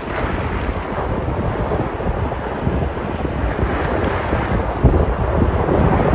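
Sea surf washing onto the shore in a steady rush, with wind buffeting the microphone; the rush swells a little near the end.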